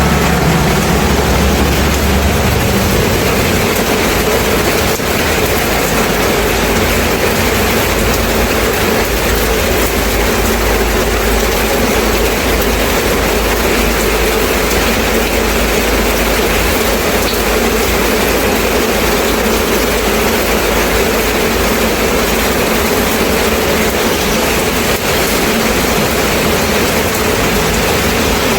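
Steady rain, an even hiss, over a low rumble that shifts about two seconds in.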